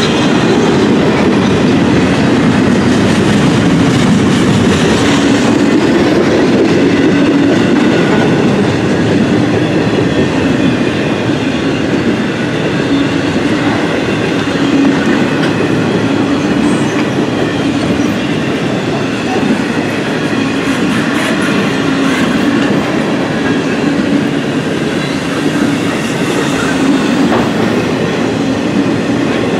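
Norfolk Southern intermodal freight train rolling past steadily, the wheels running on the rails.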